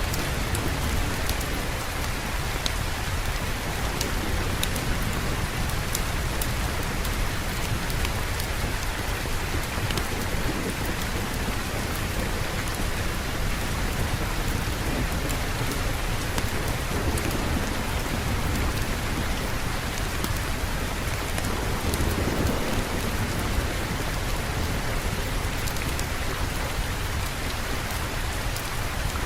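Steady rain falling, an even rushing hiss with scattered small sharp ticks of drops. About three quarters of the way through, a low rumble swells briefly, like distant thunder.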